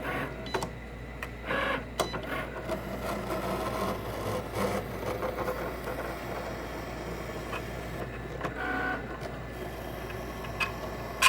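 Cricut Explore Air 2 cutting machine running, its carriage motors whirring in short bursts amid irregular clicks, with a scratching, crunching noise that the owner takes for a fault.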